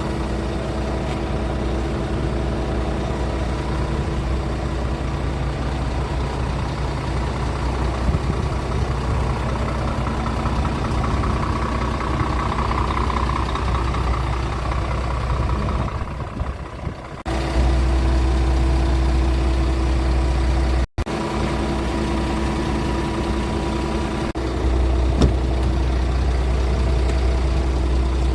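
Scania R450 truck's 13-litre six-cylinder diesel idling steadily. Its level and tone jump abruptly twice, and there is a brief dropout about two-thirds of the way through.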